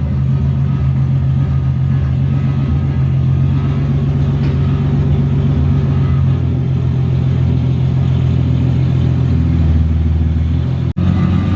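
Single-turbo Nissan 370Z's 3.7-litre V6 running steadily at idle through open dumps with no exhaust fitted, giving a loud, raw sound. There is a sudden split-second break near the end.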